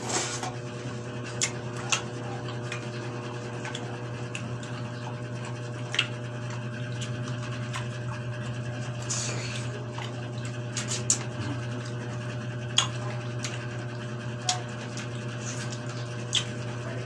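People chewing and eating pineapple, with soft mouth sounds and a few irregular sharp clicks, over a steady low hum.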